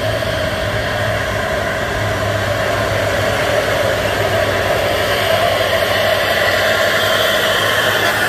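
Truck engine running steadily with a continuous hiss of noise over it.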